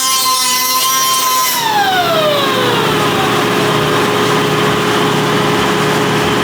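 Power grinder running with a steady high whine, then pressed into metal: about a second and a half in, its pitch drops sharply under the load and a rough grinding noise sets in.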